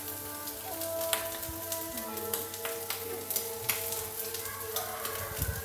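Long beans and onion frying in oil in a wok over a gas flame: a steady sizzle with scattered sharp pops. Background music with held tones plays under it.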